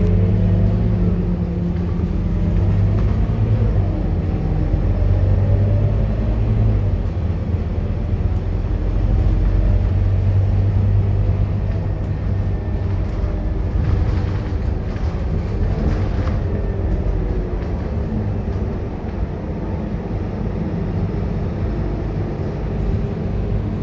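Scania K230UB bus's diesel engine running under way, its pitch rising and falling several times as engine speed changes.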